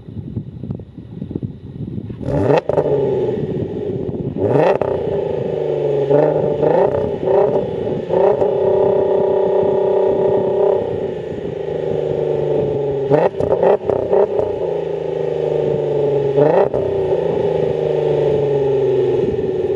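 Audi TT's 3.6-litre VR6 engine, swapped in from a Passat R36, revving through a Varex valved exhaust muffler. The revs rise sharply several times and fall back, with a few short blips and steadier held stretches between.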